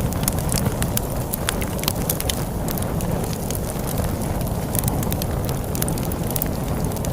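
Crackling log fire, with many sharp snaps and pops scattered irregularly over a steady low rush of storm wind.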